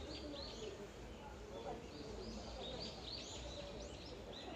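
Several small birds chirping together in the garden trees: a steady chatter of short, quick, arched chirps with no pause, over a faint low rumble.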